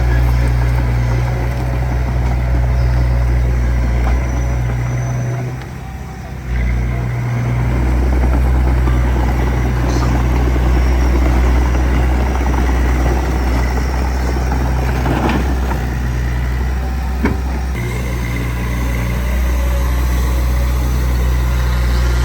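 Small bulldozer's diesel engine running steadily. Its sound drops briefly about six seconds in before picking up again, and there is a single short knock late on.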